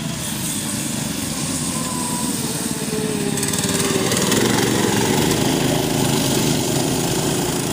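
Small 6.5 hp single-cylinder mini bike engines running at race speed, their pitch rising and falling as the riders work the throttle. The sound grows louder toward the middle, then eases a little.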